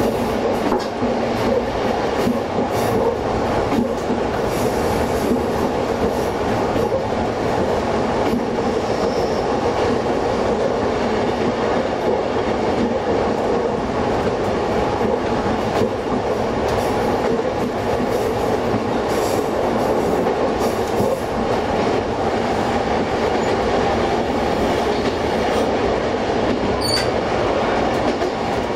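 Diesel railcar running steadily along jointed single track, heard from inside the cab: a constant rumble of engine and wheels with scattered clicks as the wheels cross rail joints, and a brief high squeak near the end.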